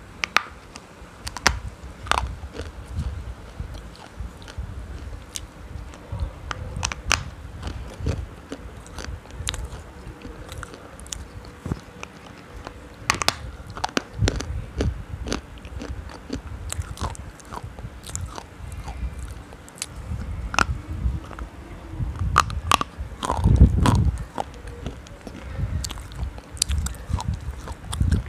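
Close-miked biting and chewing of a hard, chalky black piece: irregular sharp crunches and clicks with chewing between them, over a low rumble from the microphone held against the mouth.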